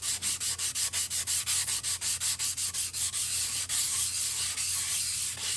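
600-grit sandpaper rubbed back and forth by hand inside the cylinder bore of a Honda TRX90 engine, wetted with PB Blaster, making a steady rhythmic scrubbing of about five strokes a second. It is light sanding to take out marks in the bore and prep it for a new piston, since the hone would not fit.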